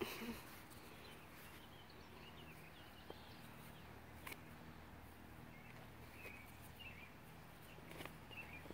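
Quiet outdoor ambience: faint small-bird chirps scattered throughout, a few soft clicks and a low steady hum.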